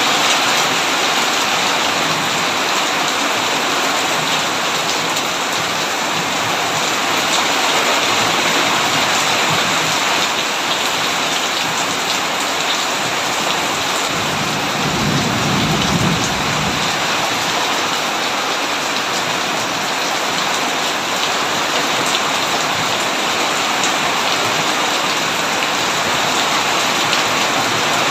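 Heavy rain pouring steadily on a tin roof. About halfway through, a low rumble of thunder swells and fades over about two seconds.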